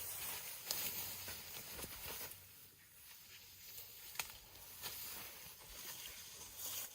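Leafy branches rustling and crackling with scattered sharp snaps and clicks as elephants handle and feed on them.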